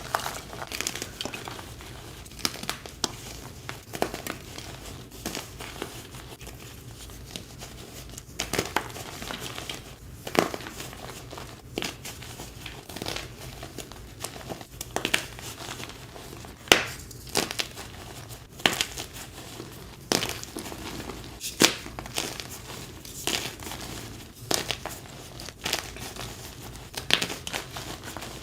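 Blocks of dyed gym chalk crushed by hand, crumbling with a soft, crunchy texture broken by sharp crackles every second or two.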